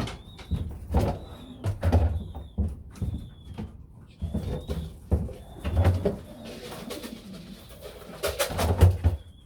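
Racing pigeons cooing, mixed with repeated clicks and knocks.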